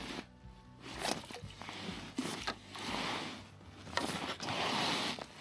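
Rustling and scraping handling noises in several rising and falling swells, with a few sharp clicks, as a freshly caught bream is handled.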